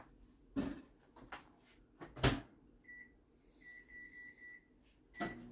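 Microwave oven being loaded and started: a few knocks and a thump as the dish goes in and the door shuts, then high keypad beeps. The oven starts running with a low steady hum near the end.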